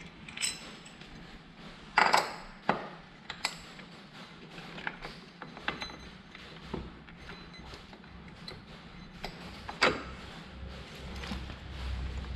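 Scattered metallic clinks and knocks of scooter CVT transmission parts and hand tools being handled, the loudest about two seconds in and again near ten seconds, some with a short metallic ring.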